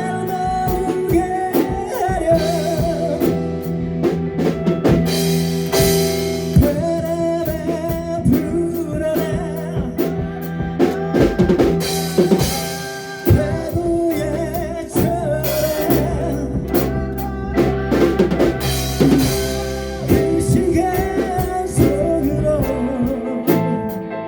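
A band playing live: a drum kit with cymbal crashes, guitars, and a sung melody over them.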